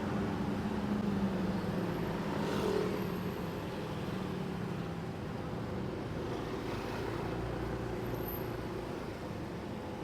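City traffic heard from a moving motorcycle: engines running with a steady rush of road and wind noise, and an engine drone that is strongest in the first few seconds and then eases.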